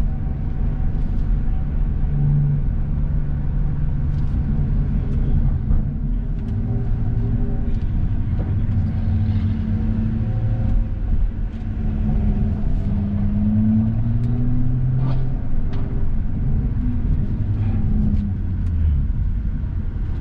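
Engine of a 2017 BMW M240i, its 3.0-litre turbocharged inline-six, running at low revs with a steady rumble, its pitch stepping up and down several times.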